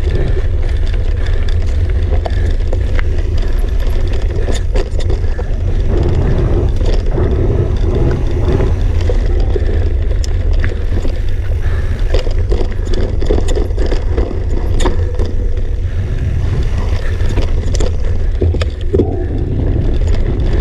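Mountain bike ridden over rough, rocky ground: tyres crunch and the bike rattles in many short knocks and clicks, over a steady low rumble of wind buffeting the camera microphone.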